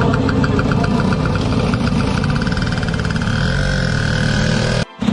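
Motorcycle engines running at idle, with a steady ticking beat whose note changes about three seconds in. The sound drops out very briefly near the end.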